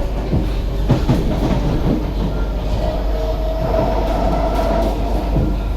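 SMRT C151B train running at speed, heard from inside the car. There is a steady rumble, with a few sharp clacks from the wheels over the track around the first second and a steady tone through the middle.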